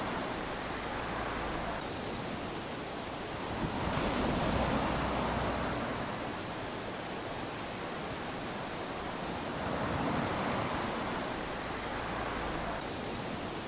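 Small sea waves lapping onto a sandy shore: a steady wash that swells and fades as each wave comes in, about every five to six seconds.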